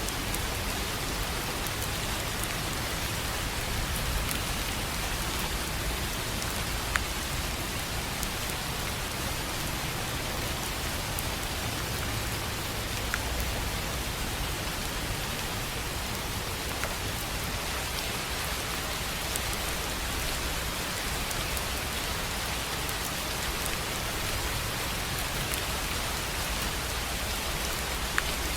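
Steady rain falling on a tin roof: a continuous even hiss with a few sharp drop ticks scattered through it.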